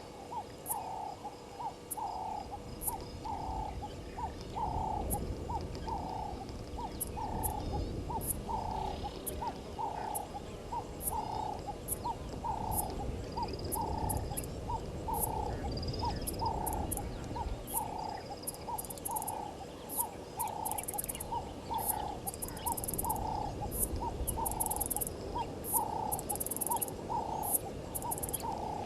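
A wild animal's low hooting call, repeated evenly about three times every two seconds without a break. High, sharp chirps or clicks come more and more thickly in the second half, over a low rumble.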